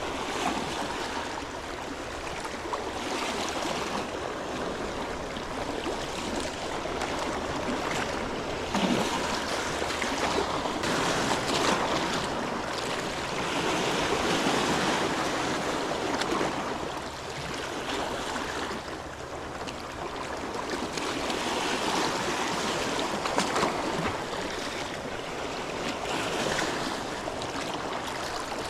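Seawater washing at the shore: small waves in a steady hiss that swells and eases every few seconds.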